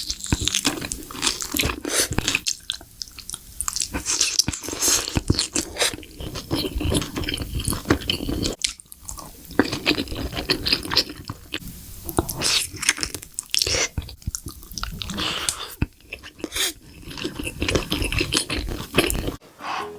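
Close-miked eating: loud, irregular crunching and chewing of crisp food, many sharp crunches in quick succession, cutting off abruptly near the end.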